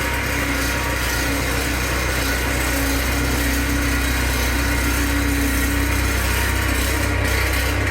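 Skid steer engine running steadily at idle just after starting, with a higher steady hum over it that fades out about six seconds in.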